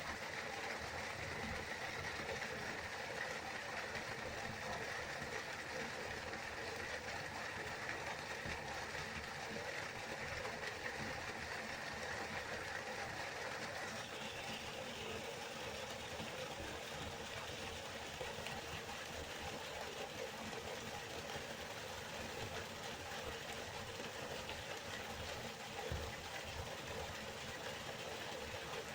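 Waterfall: a steady rush of falling water, its tone shifting slightly about halfway through.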